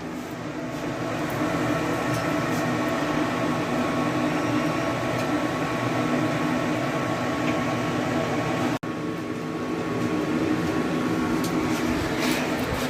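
Steady mechanical hum, a constant drone of several fixed tones, cut off sharply for a moment about nine seconds in.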